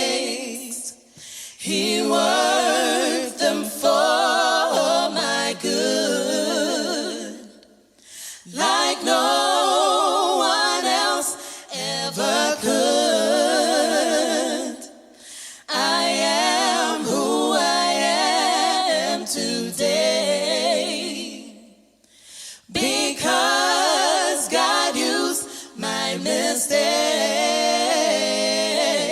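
Choir singing a cappella gospel, in phrases a few seconds long with short breaths between them.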